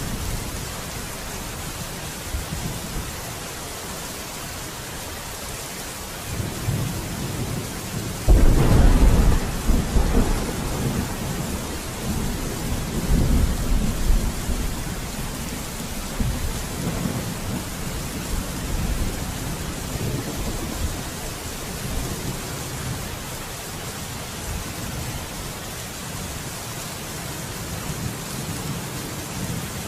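Steady rain with a roll of thunder: a low rumble builds about six seconds in, breaks into a loud clap a little after eight seconds, and rumbles on for several seconds before fading back under the rain.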